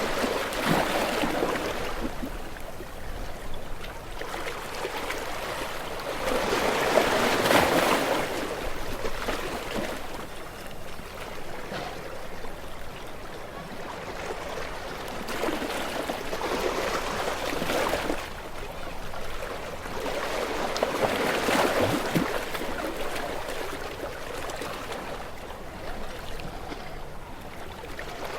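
Ocean waves washing on the shore, a steady hiss of surf that swells and fades in slow surges, about four times, the loudest wash coming about seven seconds in.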